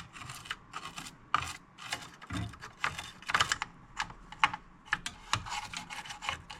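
Soft-bristle toothbrush scrubbing a circuit board wet with isopropyl alcohol: quick, irregular scratchy strokes, several a second.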